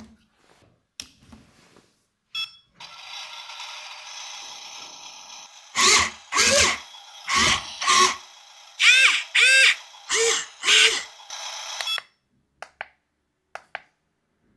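A mini RC dump truck's built-in sound module playing electronic sound effects through its tiny speaker. A steady thin engine-like hum runs for about nine seconds, and near the middle about eight loud short honking tones sound, each dipping in pitch.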